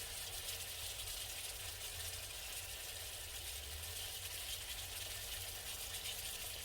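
Steady sizzling of beef offal grilling over a camp stove, with a low rumble underneath.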